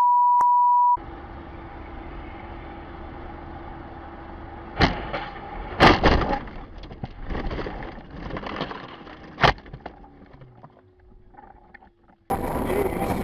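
A steady high beep for about a second, then a car's engine and road noise heard from inside, broken by loud sharp bangs about five, six and nine and a half seconds in, the impacts of a car crash.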